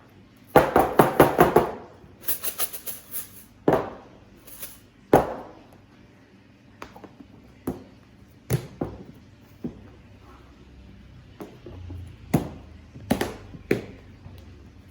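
Kitchen items being handled: a quick rattling run of clicks about half a second in, a second shorter run, then scattered single knocks and taps. The first run is the loudest.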